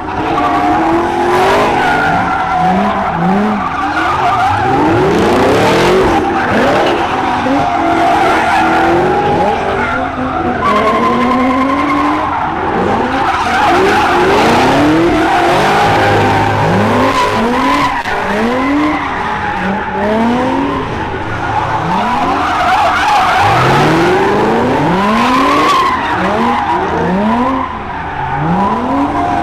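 Muscle-car V8 engines revving in repeated rising pulls over continuous tire screeching, as cars spin their tires on pavement.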